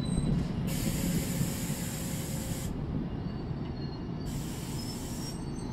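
New Jersey Transit commuter train rumbling low and slowly fading, with two bursts of air hiss: one of about two seconds, then a shorter one about a second long near the end.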